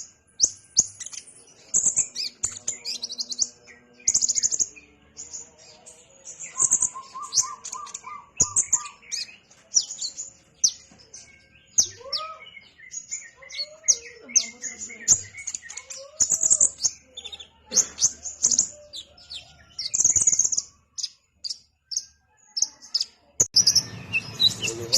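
Sunbird of the kind Indonesian bird keepers call 'kolibri ninja' singing: rapid runs of short, very high, sharp chirps, with some lower sliding notes between phrases. A low drone comes in near the end.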